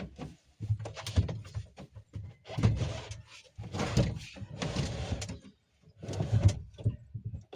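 A small 12-volt fridge being shoved and slid into a tight built-in space: four bursts of scraping and bumping, each a second or so long.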